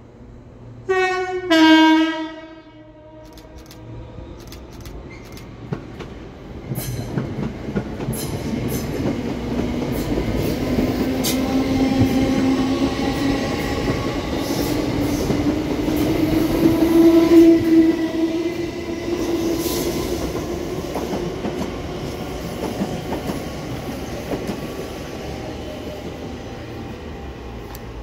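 Electric multiple unit sounding a two-tone horn, a higher note then a lower, louder one, then running past with a hum that rises in pitch and clicking wheels over rail joints. The sound builds to its loudest after about 17 seconds and then slowly fades.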